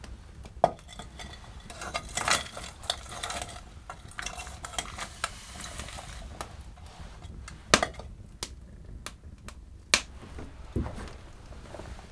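Metal cookware being handled: clinking and scraping of a utensil in a pot, with a few single sharp knocks.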